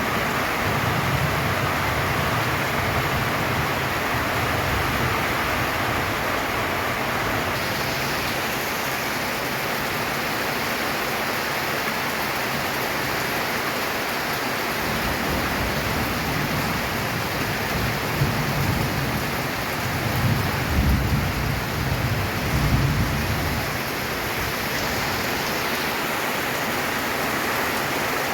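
Steady heavy rain drumming on a corrugated tin roof, an even hiss of drops. A low rumble swells and fades a few times about two-thirds of the way through.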